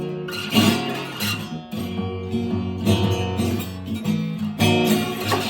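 Acoustic guitar strummed in a blues groove, with ringing chords and a sharp strum about half a second in.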